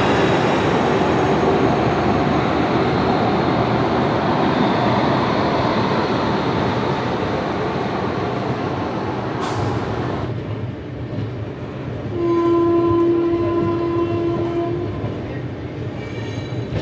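Passenger train pulling out and gathering speed, its coaches and wheels making a loud rushing noise that cuts off about ten seconds in. About twelve seconds in, the locomotive's horn sounds one steady blast of about three seconds.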